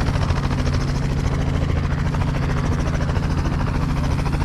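Helicopter running steadily, its rotor giving a fast, even beat over a low drone.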